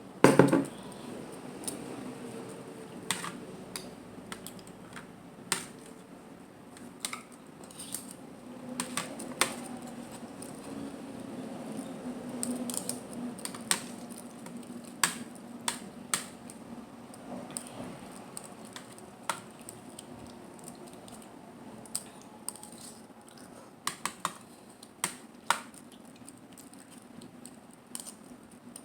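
Close-miked eating of mussels and clams: irregular sharp clicks and clacks of shells, over soft chewing.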